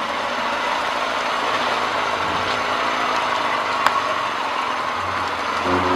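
Subaru Forester's flat-four engine running at low throttle as the car crawls over a rock ledge, a steady running sound with one sharp click a little under four seconds in. Near the end the engine note gets louder as more throttle is given.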